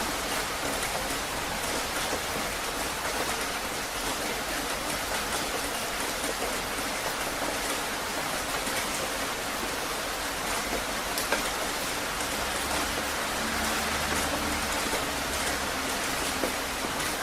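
Heavy rain falling steadily: a dense, even hiss of rain with single drop hits ticking through it.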